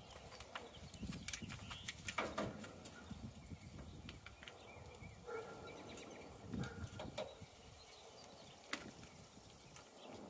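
Faint scattered clicks and knocks of handling, with a few brief chirps.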